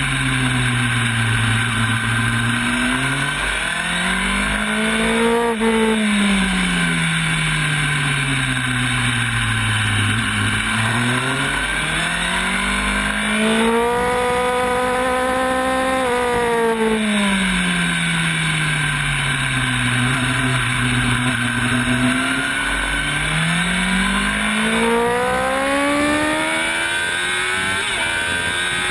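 Sport motorcycle engine heard from on board at track speed, its revs climbing and falling several times as the rider accelerates and slows through corners. It rises highest about halfway through and climbs again near the end, over a steady rush of wind noise.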